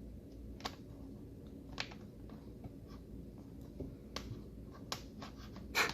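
Faint handling noises: a few scattered light clicks and taps over a low steady hum.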